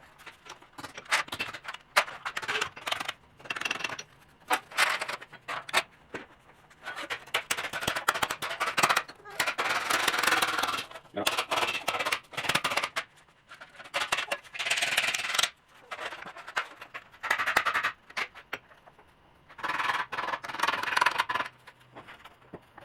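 Irregular short scraping strokes in bursts of about a second, with sharp clicks and knocks between them.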